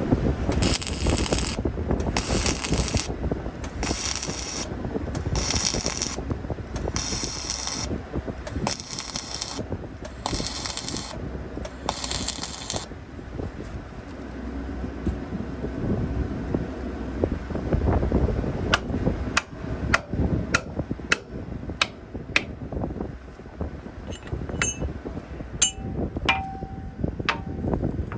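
Steel repair work on heavy-equipment frame: about eight short hissing bursts a little over a second apart, then a run of sharp metallic clinks and taps, some of them ringing briefly, over a low rumble.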